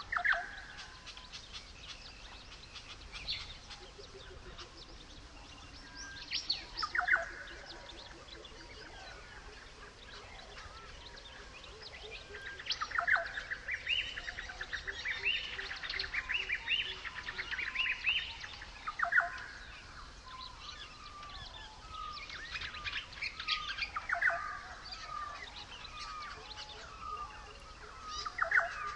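Several birds calling and chirping, with sharp sweeping calls and a dense stretch of rapid repeated notes from about 13 to 18 seconds in.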